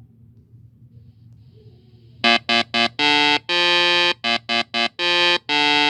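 A faint low rumble, then a loud buzzy tone of one pitch, sounded about two seconds in as a run of short and long blasts, like a horn honked in a rhythm.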